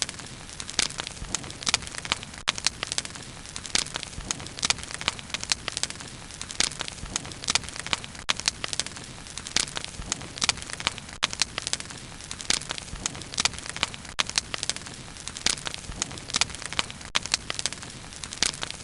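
Wood fire burning with steady, irregular crackles and pops, several a second over a low rushing of flame.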